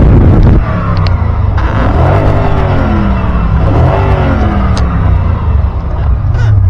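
Car engine being revved hard with the gas pedal, rising and falling twice before dropping back toward idle. A loud rushing noise sits at the very start.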